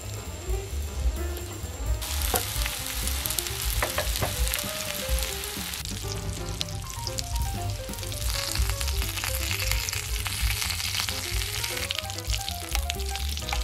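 Ground-meat-stuffed green peppers sizzling meat-side down on a hot multi griddle, the frying hiss starting suddenly about two seconds in, with tongs clicking against the pan now and then. Background music with a melody and steady bass plays throughout.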